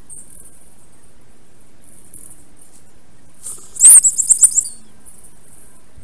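A bird calling close to the microphone, a quick run of about five or six loud, high chirps about four seconds in. Faint high birdsong goes on behind it.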